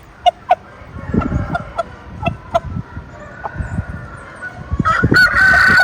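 Roosters clucking among scattered low knocks, then about five seconds in a rooster starts a loud crow that is still going at the end.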